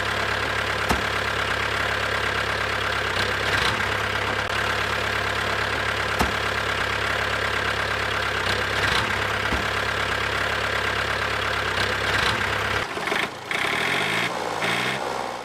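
A small motor running steadily; its low hum drops out near the end.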